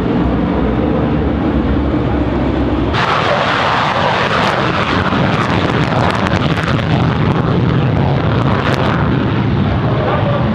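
Propeller aircraft engines running loudly and steadily. About three seconds in, the sound changes abruptly to a rougher, noisier, crackling engine sound.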